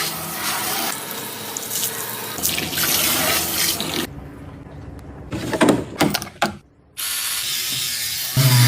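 Water running from a kitchen tap into a sink. It stops for a few seconds in the middle, when a few sharp scraping, handling sounds are heard, then runs again.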